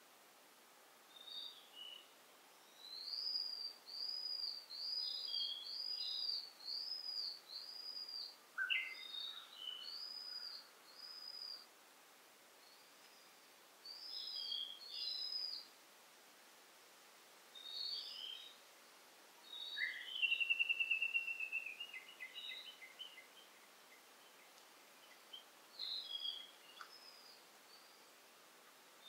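Wild birds singing: phrases of repeated high, arching notes with quiet gaps between them, and a louder, fast trill of notes about two-thirds of the way in.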